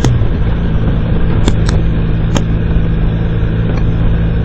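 Motorcycle engine running at a steady cruising speed, its pitch holding constant, under a dense rush of wind and road noise, with a few short clicks about a second and a half and two and a half seconds in.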